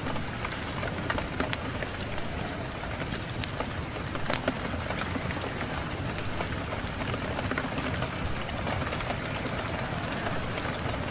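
Wood fire burning in a fireplace, crackling with sharp irregular pops over a steady rushing noise of wind.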